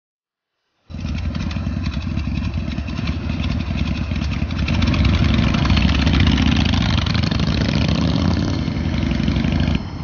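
Harley-Davidson Shovelhead V-twin motorcycle engine running, loud and steady. It cuts in suddenly about a second in, grows a little louder about halfway through and drops off just before the end.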